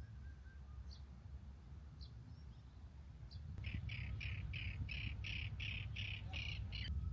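A bird calling: a few single short chirps, then about halfway in a quick series of about eleven repeated short notes, roughly three a second, growing louder before stopping. A steady low rumble lies underneath.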